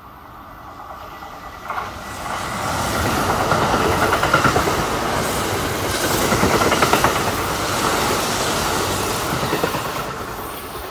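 Kintetsu 21000 series Urban Liner limited express, an eight-car electric train, passing at speed. Its wheels clack over the rail joints. The sound swells over the first few seconds, stays loud while the cars go by, then begins to fade near the end.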